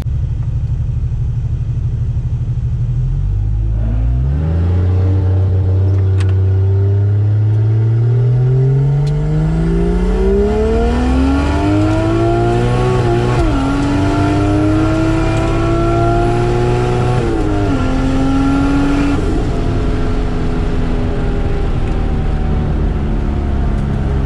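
2JZ inline-six engine in a Holden Commodore wagon, heard from inside the cabin. It runs steadily, then pulls away with its pitch climbing for several seconds. The pitch drops twice at gear changes, and the engine then settles into a steady cruise.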